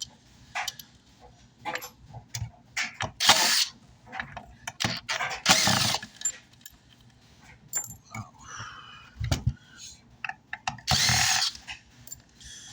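Power drill driving out screws from an amplifier's metal chassis, run in short bursts of about half a second, with clicks and knocks of handling between them.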